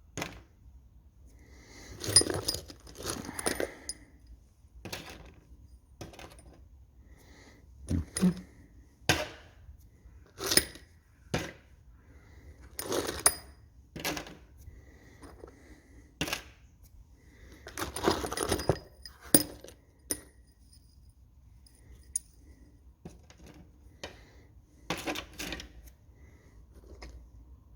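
Loose steel engine valves for an Austin straight-six being sorted out of a parts box, clinking and rattling against each other and the box in irregular bursts, some strikes ringing briefly.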